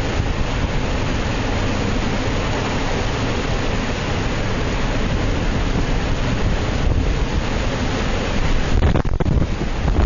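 Hurricane wind blowing hard, a steady rush of noise with gusts buffeting the microphone in a low rumble, growing a little louder near the end.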